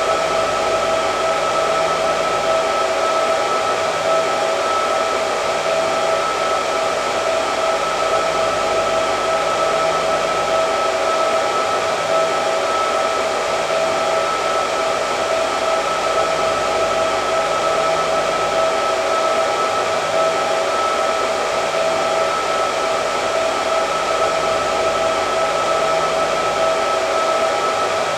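Hair dryer running continuously: a steady rush of air with a constant whine from the motor and fan, unchanging in pitch and level.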